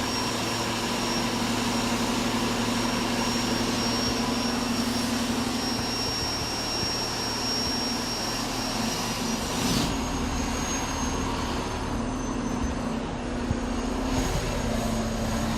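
Heavy rally trucks' diesel engines running steadily, a continuous hum with a thin high whine that shifts up in pitch about ten seconds in.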